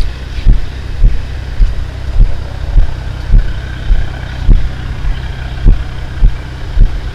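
Straight-piped Audi 2.7 TDI V6 diesel with no muffler, running steadily with a low rumble that pulses about twice a second.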